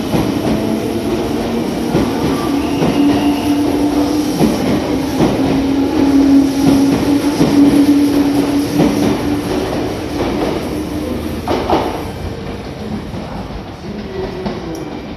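Meitetsu 6500 series and 6800 series electric train running out past the platform, with wheels clicking over rail joints and a steady motor hum. It is loudest a little past the middle and fades as the last cars leave.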